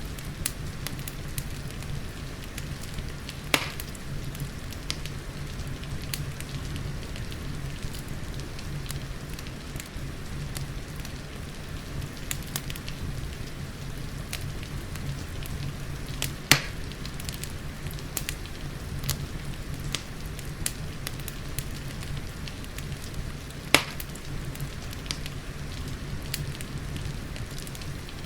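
Wood fire crackling in a fireplace: a steady patter of small crackles with three louder sharp pops scattered through, over a steady low rumble.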